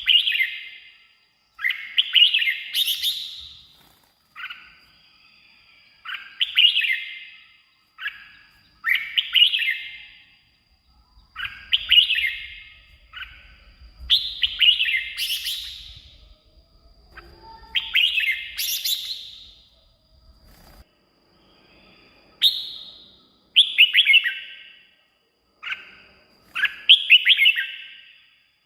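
Red-whiskered bulbul singing: a run of short, bright warbled phrases, one every second or two, about a dozen in a row.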